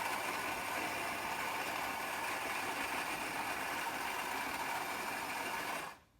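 Built-in ceramic burr grinder of a Saeco Xelsis SM7683/10 automatic espresso machine grinding coffee beans for the first espresso, a steady mechanical whirr that stops abruptly near the end.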